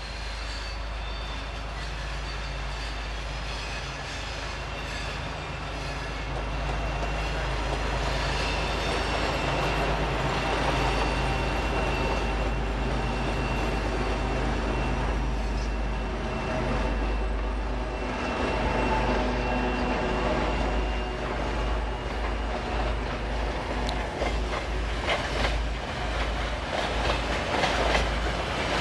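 2M62 diesel locomotive's two-stroke diesel engines running steadily as it approaches with a freight train, growing louder. A thin high squeal comes in midway, and in the last few seconds the wheels click rapidly over the rail joints.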